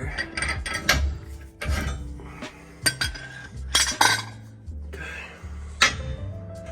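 Steel tools clinking and clanking against the torsion key and bar as the ball joint press is taken off, several sharp irregular metal knocks.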